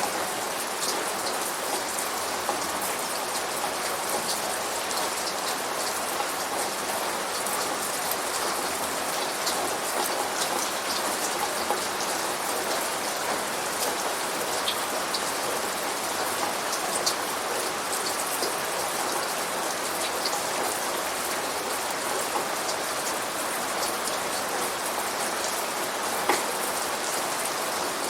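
Steady rainfall, an even hiss with many individual drops ticking sharply on a nearby surface; a few drops land louder than the rest. No thunder.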